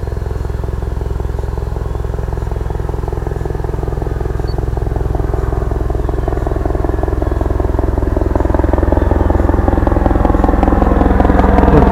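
Full-scale helicopter passing overhead: a steady, fast rotor beat over the engine's drone, growing louder over the last few seconds as it comes closer.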